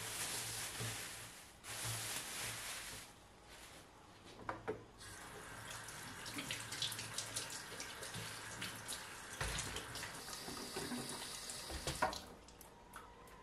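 Water running, with small clicks and clatter of things being handled.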